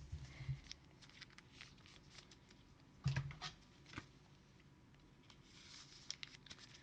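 Trading cards being handled and flipped through by hand: faint, scattered flicks and clicks, with a soft thump about three seconds in and a smaller one about a second later.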